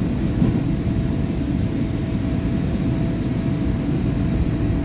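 Interior rumble of a SEPTA Market-Frankford Line M-4 subway car under way just after leaving a station: a steady low rumble of wheels and running gear with a faint steady whine above it.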